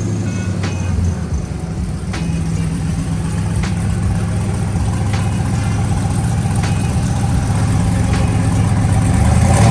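Twin-turbo box Chevy engine running steadily at idle, growing slightly louder near the end, with a faint click about every second and a half.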